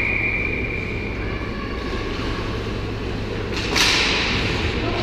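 Ice hockey rink ambience with a steady low hum. A held high tone fades out in the first second, and a little before four seconds in comes a sudden hissing scrape that dies away over about a second.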